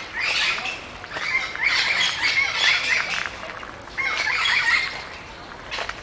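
Birds squawking: harsh, repeated calls in three runs, a short one at the start, a longer string of four or five calls from about one and a half to three seconds in, and another run about four seconds in.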